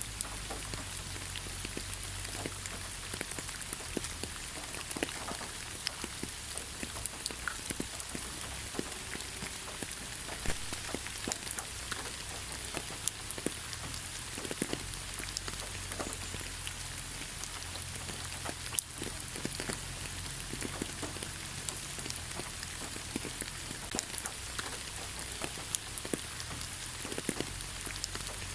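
Steady rain falling, with a constant hiss and many separate drops ticking and pattering close by.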